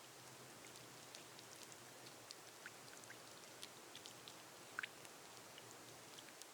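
Gentle rain on a glass roof: a faint steady hiss with scattered individual drops ticking, and two louder drops close together about five seconds in.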